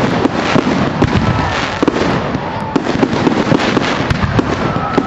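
Fireworks display going off without a pause: a dense, irregular run of bangs and crackles.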